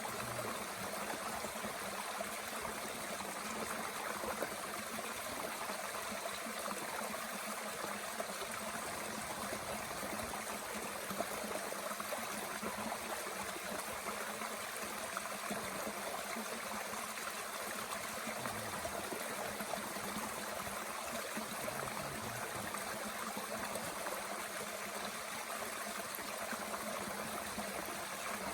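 Mountain stream flowing steadily, an even rush of water, with a few faint snaps from a small wood fire.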